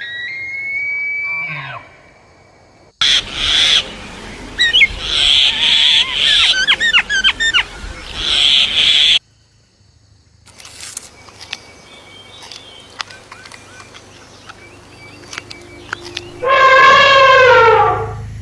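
A run of different animal calls cut sharply one after another. First comes a whistled call that rises and then holds. Next are chirps and quick trills, then faint clicks, and near the end a loud call that falls in pitch.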